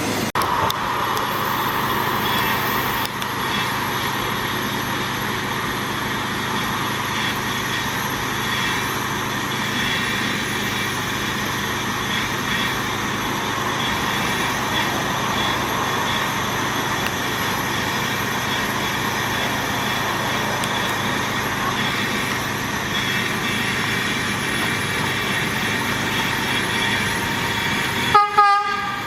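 Staten Island Railway electric train running steadily through the station. Near the end a short horn toot sounds.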